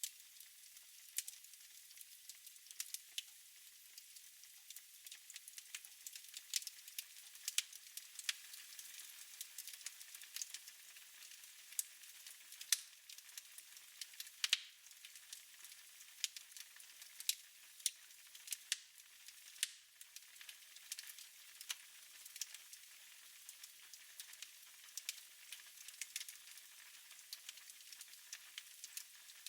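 Wood fire crackling in a fireplace: irregular sharp pops and snaps, several a second at times, over a soft steady hiss of burning.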